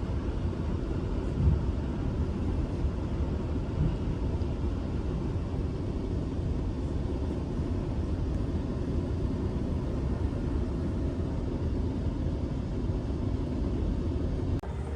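Steady low rumble of a GO Transit train at the station platform, cutting off abruptly near the end.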